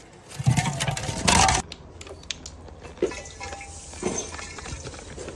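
Glass bottles smashing, two loud crashes in the first second and a half, followed by scattered clinks and tinkles of glass pieces.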